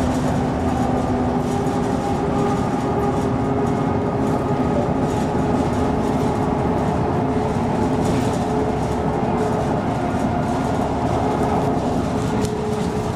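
MAN NG 313 articulated city bus running under way: a steady engine and drivetrain drone with a few held whining tones over it.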